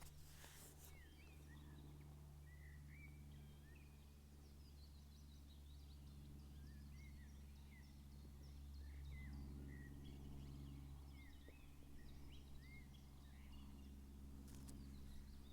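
Distant helicopter droning faintly, swelling about nine seconds in, with small birds chirping throughout.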